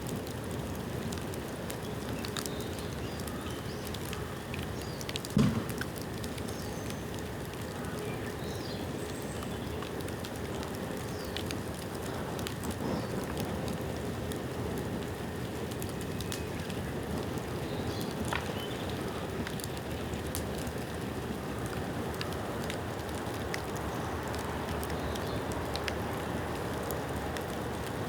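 A bamboo bonfire burning, the bamboo still damp from rain: a steady rush of flames with many small scattered crackles. There is one loud pop about five seconds in.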